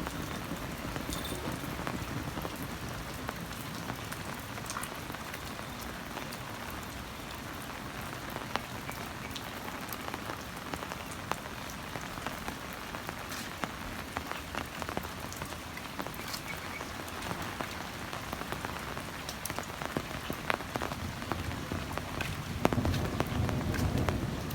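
Heavy rain falling steadily, with many sharp drop ticks close by. A low rumble builds near the end.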